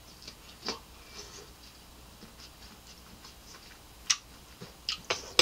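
Close-miked chewing of fresh pineapple chunks: scattered wet mouth clicks and smacks, with a few louder clicks near the end.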